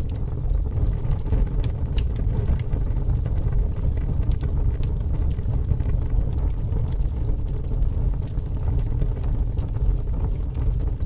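Fire burning with a steady low rumble and scattered small crackles and pops.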